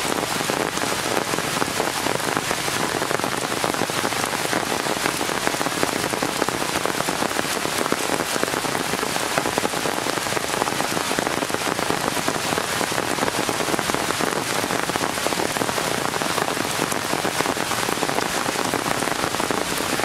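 Steady rain falling on tree leaves, a dense, even patter of drops with no let-up.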